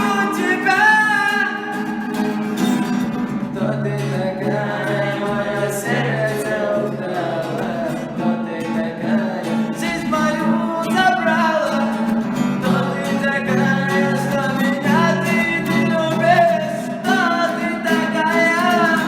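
A song: a solo voice singing a melody over acoustic guitar.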